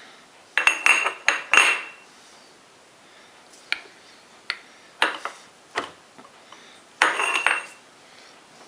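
Metal tools clinking and clattering as they are handled, with no motor running. There are clusters of sharp, briefly ringing clinks about half a second in, around five seconds and around seven seconds, and single taps in between.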